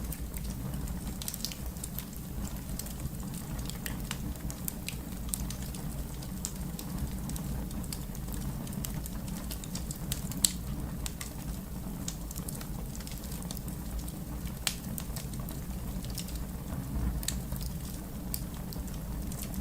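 Fire crackling: irregular sharp pops and snaps over a steady low rumble, with one louder pop about halfway through.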